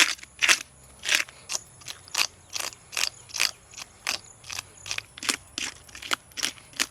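Knife working on a parrot fish in short, sharp strokes, repeated steadily about two to three times a second.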